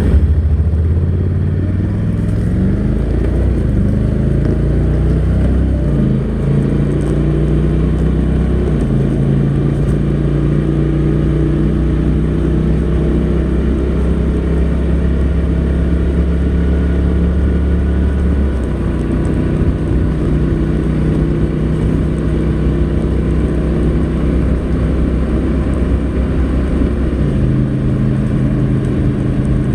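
Honda NC700X's parallel-twin engine on its stock exhaust, heard while riding. The note climbs over the first few seconds, then holds steady at cruising speed, with a drop in pitch about two-thirds of the way through and another change near the end.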